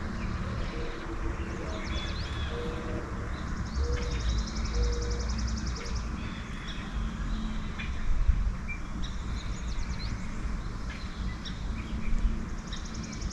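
Songbirds at a feeder chirping and calling, with a fast high buzzy trill twice, over a low rumble of background noise.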